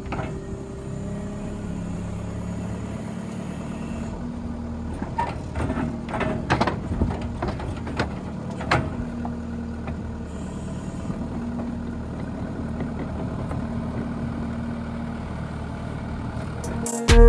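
Pickup truck engine running at a steady idle, with a few sharp knocks and clatter in the middle.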